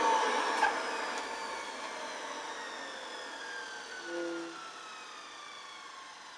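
Motor of a 1960 Hoover Deluxe 652 upright vacuum cleaner running down after being switched off, its whine falling in pitch and fading away, with a click about half a second in. The run ended because the new drive belt snapped.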